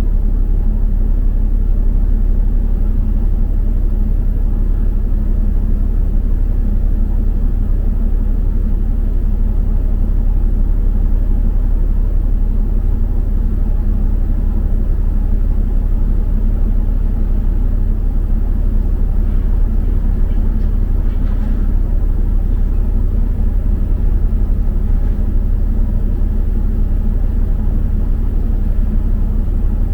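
Steady low rumble of a double-decker bus's engine and tyres, heard from inside the moving bus.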